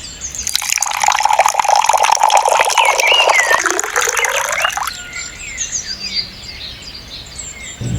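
Birds chirping throughout, with a loud hissing rush in the first few seconds that stops abruptly about 5 seconds in, after which only the chirps remain.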